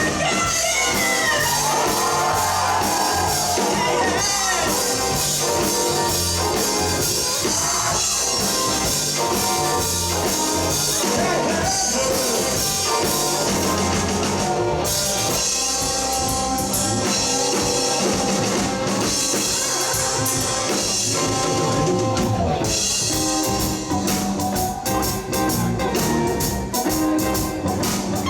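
Live rock band playing: drum kit, bass and guitars together, with a high part bending up and down in pitch during the first few seconds.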